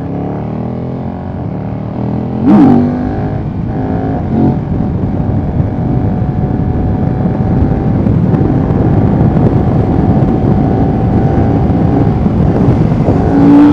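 KTM 1290 Super Duke R's V-twin engine pulling away and accelerating, its pitch climbing, with a short loud burst about two and a half seconds in. It then runs on at a slowly rising, steady pitch over rushing wind noise.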